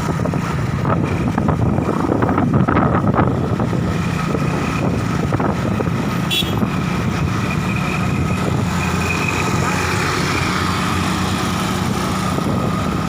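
A motor vehicle engine running steadily, with street noise and some voices underneath.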